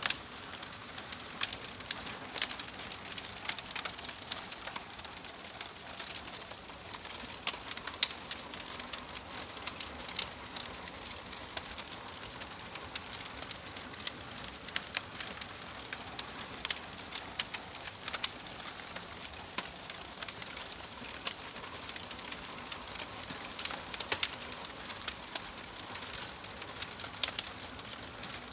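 Wood fire crackling in a fireplace: a steady soft hiss with irregular sharp pops and snaps.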